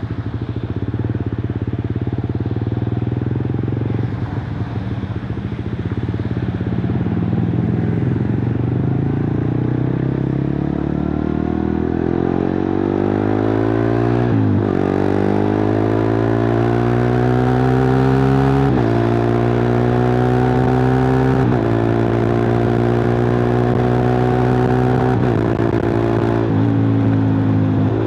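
Suzuki GSX-R150's single-cylinder four-stroke engine through a cut-open exhaust, running steadily at low revs, then from about halfway accelerating hard. The pitch climbs in each gear and drops at several quick upshifts.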